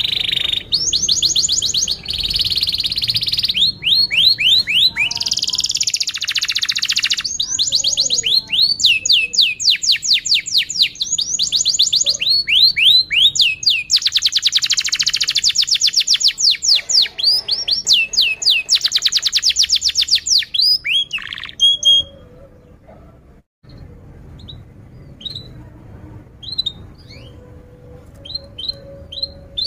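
Domestic canary singing a loud, long song of rapid trills and fast repeated sweeping notes. It breaks off about two-thirds of the way in, and after a brief gap only scattered short chirps follow.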